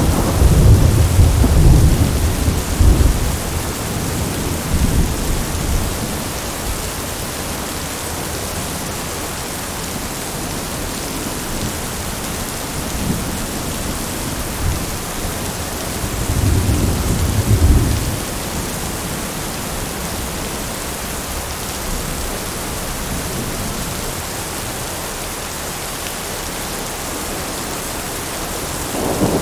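Steady rain with rolling thunder: a deep rumble at the start dies away over about six seconds, and a second roll of thunder comes a little past halfway.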